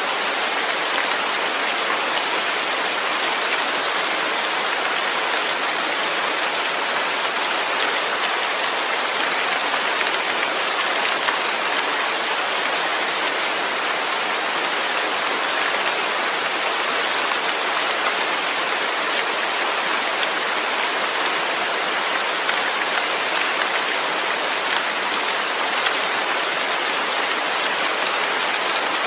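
Steady, even rain falling, a continuous hiss of many drops with no let-up or change.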